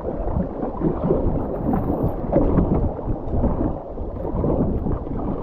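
River water rushing and splashing around a whitewater kayak: a steady, full wash with a deep low rumble.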